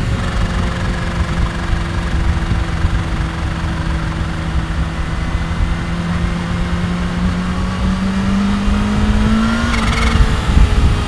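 Kawasaki Ninja H2's supercharged inline-four running at a steady cruise, its note climbing slowly over a few seconds and then dropping suddenly about ten seconds in, as the throttle is rolled off or a gear is changed.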